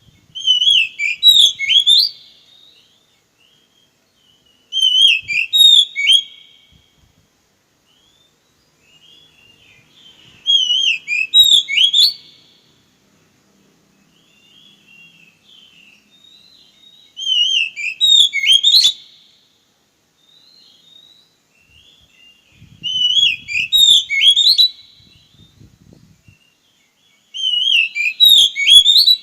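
Oriental magpie-robin (kacer) singing: six loud, whistled warbling phrases of about two seconds each, spaced roughly every five to six seconds, with soft twittering between them.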